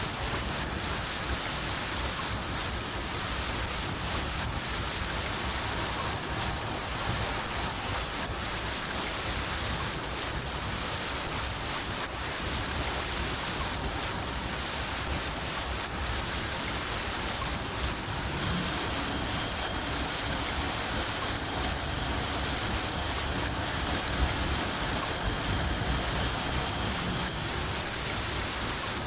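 A cricket chirping steadily, about three chirps a second, over the hiss of falling rain.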